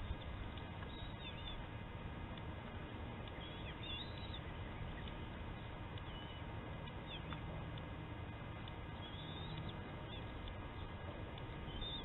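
Steady outdoor background noise with faint, brief bird chirps every few seconds.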